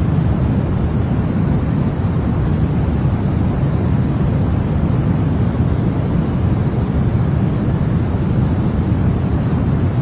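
Continuous white noise, steady and unchanging, with most of its weight in the low range so it sounds deep rather than hissy.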